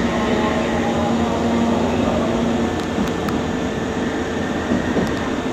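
Nankai electric train running along the station platform, a steady rumble with a low motor hum that stops about two and a half seconds in.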